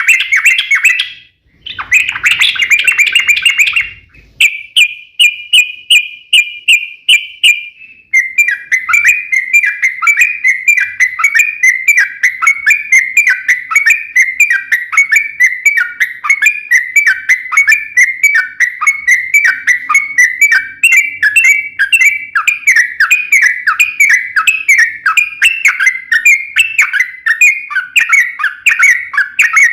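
Yellow-vented bulbul (trucukan) singing loudly. It starts with two short chattering phrases, then a run of clear repeated notes. About eight seconds in it goes into a long, unbroken rapid series of quick falling notes, the 'ropel panjang' long rolling song.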